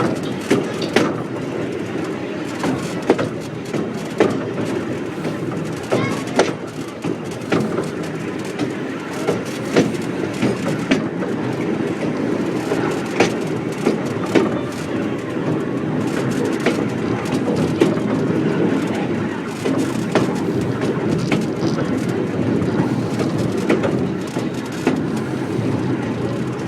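Heritage train running along the track: a steady rumble with irregular sharp clacks of the wheels over rail joints, roughly once a second.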